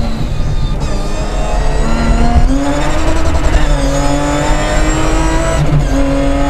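BMW 325 Group A rally car's straight-six engine heard from inside the cabin at full effort, its note rising and falling with the revs through gear changes.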